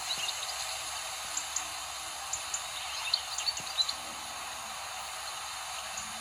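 Small birds chirping in short, high notes, scattered at first and bunched together for about a second near the middle, over a steady background hiss.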